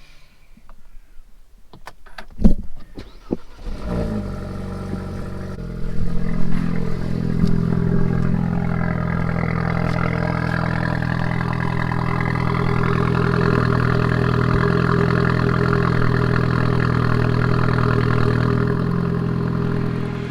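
A few sharp knocks, then a Renault Mégane's engine cranks about four seconds in and catches with a burst of revs, settling into a steady fast idle: a cold start on an early morning, left running to warm up.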